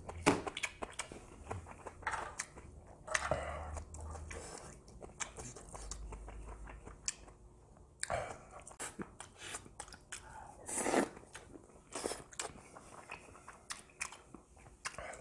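Close-miked chewing of a mouthful of fried rice with grilled beef intestines: wet mouth smacks and small clicks, with a few louder smacks as another spoonful goes in partway through.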